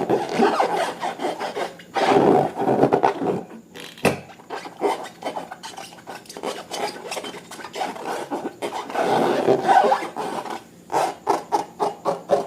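Slime being squeezed and worked by hand: sticky rubbing and crackling in uneven surges, with a run of quick separate clicks and pops near the end.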